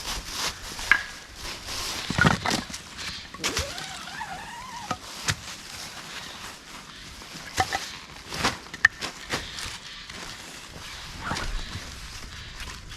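Irregular knocks, cracks and clatter of firewood being handled and gathered, with rustling among dry leaves.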